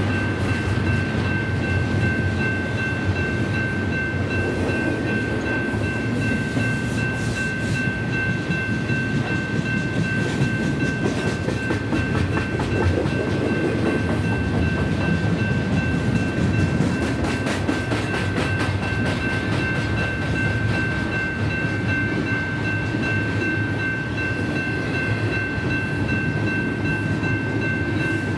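Double-stack intermodal well cars rolling past close by: a steady, heavy rumble of steel wheels on rail, with scattered clicks and clatter. A steady high-pitched ringing tone runs over it throughout.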